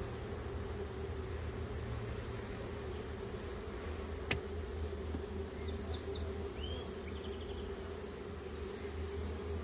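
Honeybees buzzing steadily around an opened hive during an inspection, a constant hum. A single sharp click sounds a little over four seconds in, and a few faint high chirps come and go.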